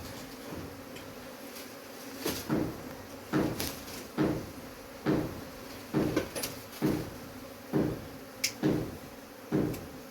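Honeybees buzzing steadily under a regular series of dull knocks, about one a second.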